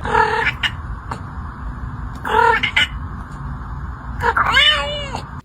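A domestic cat meowing three times, the last a longer wavering yowl, over a steady background hiss.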